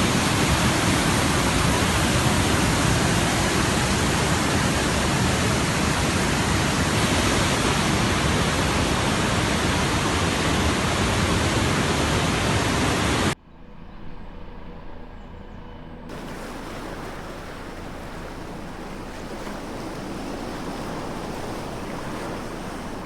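Steady, even roar of a huge waterfall, cut off abruptly about 13 seconds in. A much quieter steady rush, like wind and surf, follows and slowly grows.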